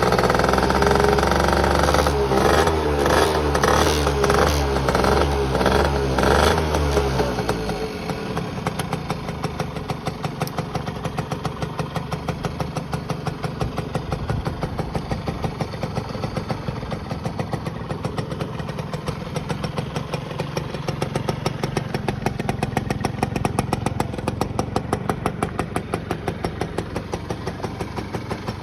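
Suzuki RV50 Van Van's two-stroke single-cylinder engine running with rising and falling revs for about the first seven seconds, then settling to a steady idle with an even pulsing beat.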